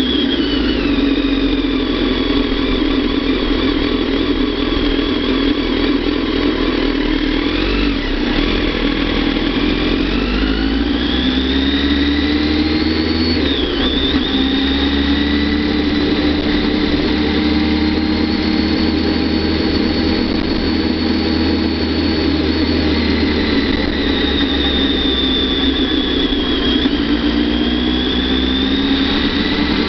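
Kawasaki ZX-10R's inline-four engine running at low road speed, its pitch rising and falling with the throttle. It drops off about eight seconds in, climbs again from about ten seconds, and dips and rises once more near the end.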